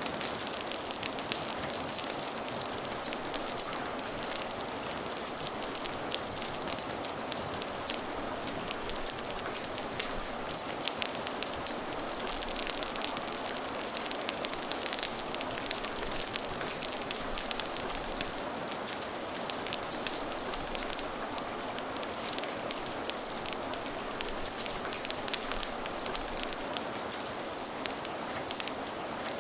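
Steady rain with a fire crackling: an even hiss sprinkled throughout with many small sharp pops and ticks.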